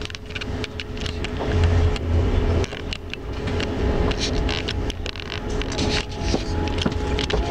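Passenger train carriage rolling along, heard from inside the compartment: a steady low rumble with a faint steady hum and many irregular clicks and knocks from the running gear.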